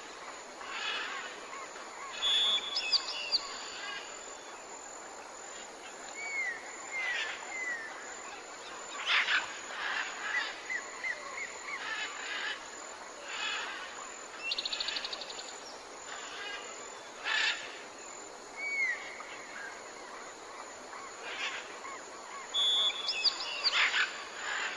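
Several birds calling: short sharp chirps, slurred whistled notes and a brief rapid trill about midway, over a steady background hiss.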